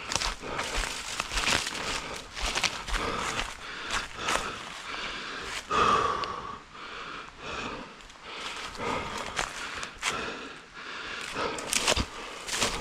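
A runner's footsteps through forest ground and undergrowth, about two a second, with leaves and brush crunching and rustling underfoot and his heavy breathing. There is one brief, louder pitched sound about halfway through.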